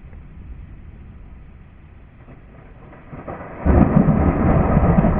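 Thunder after a nearby lightning strike: a low rumble, then a sudden loud crack about three and a half seconds in that goes on rumbling.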